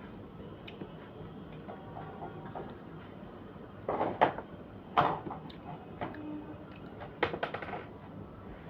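Dishes clattering during a meal: a few sharp clinks and knocks about four and five seconds in, then a quick run of them near the end.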